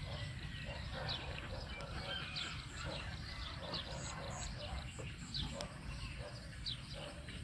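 Small birds chirping in the background: short falling notes, several a second at times, over a steady low rumble of wind.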